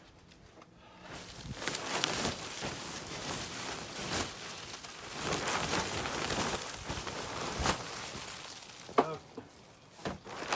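Crunching and scraping in deep snow, in long swells with short scuffs, from snow being cleared and trodden; a sharp knock near the end.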